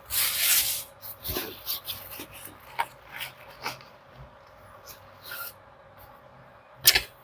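Irregular rustling and clattering as soaked belongings are handled and moved, with a short hissing burst at the start and a sharp knock near the end.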